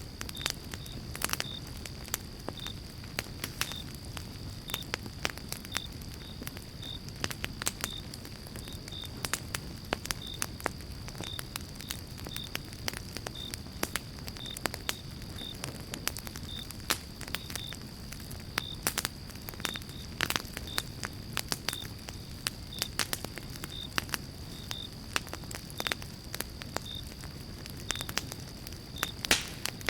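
Campfire of pine logs burning steadily with a continual crackle and frequent sharp pops over a low rumble of flame.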